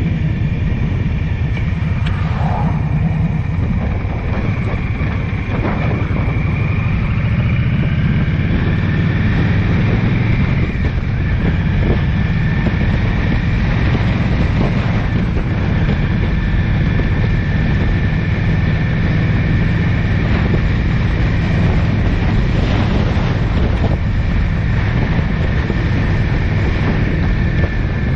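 A car driving at steady speed: continuous road and wind noise, with a faint steady high whine.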